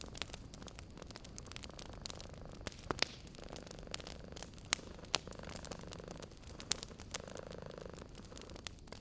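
Wood fire crackling, with sharp irregular pops and snaps, over a cat's steady low purring.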